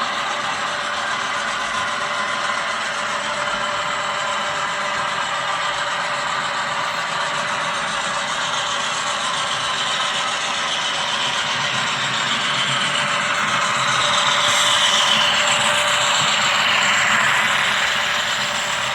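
HO scale model train running on the layout: a steady mechanical whir from the locomotive and cars on the track. It grows louder about three-quarters of the way through and eases off near the end.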